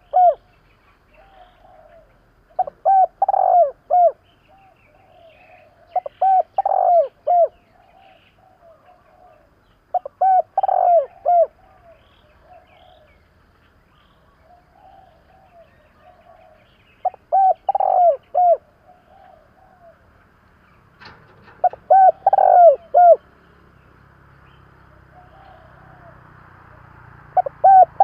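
Spotted dove (cu gáy) cooing: its loud, several-note coo phrase repeated about every four seconds, with a longer pause in the middle and softer notes between phrases. It is a calling male's song, used as a lure to provoke wild doves into answering.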